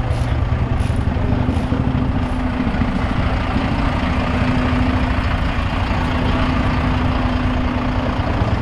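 Case IH Steiger 9370's 14-litre six-cylinder diesel running steadily, a deep even engine sound with a constant hum over it until near the end.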